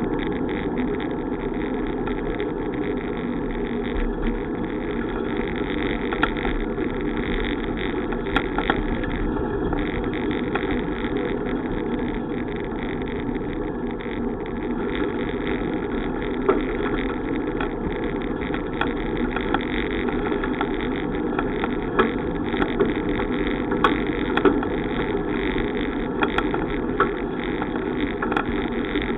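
Steady rushing noise of a bicycle ride, wind and tyre noise on the microphone, with scattered light clicks and rattles.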